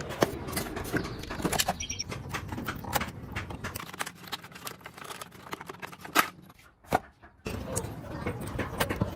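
Irregular clicks and taps, as of small parts and tools being handled, over a steady low background noise. The sound drops out briefly about seven seconds in, then the background returns.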